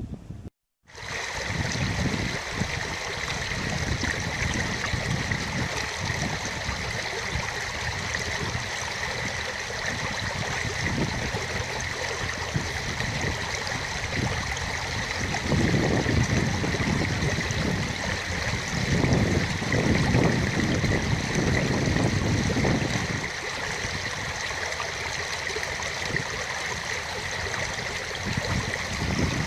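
Steady sound of running water, with low rumbling from wind on the microphone for several seconds around the middle.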